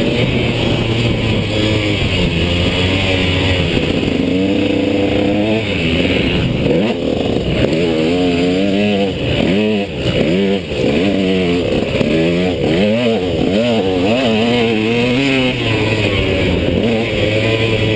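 KTM two-stroke motocross bike's engine running hard, its pitch rising and falling quickly over and over through the middle as the throttle is worked, steadier near the start and the end.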